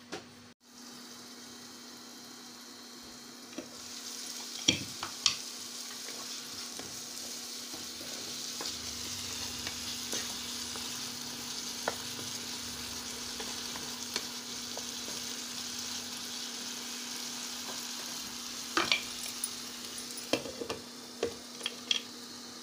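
Diced potatoes in masala paste sizzling in a nonstick frying pan; the sizzle comes in about four seconds in, with a couple of sharp clicks of a spoon against the pan. Near the end comes a run of clatters as the pan's glass lid goes on. A steady low hum runs underneath.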